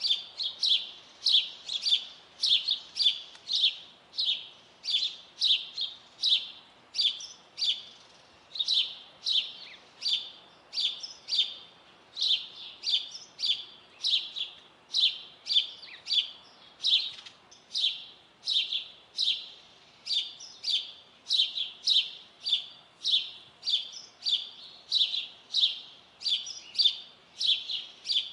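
A songbird chirping over and over in short, sharp, high-pitched chirps, about two a second, with no break.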